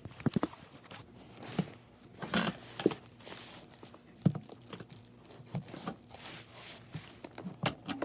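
Irregular knocks and bumps, with a longer scrape about two and a half seconds in, as an object is pushed and shoved into a tight spot in a room.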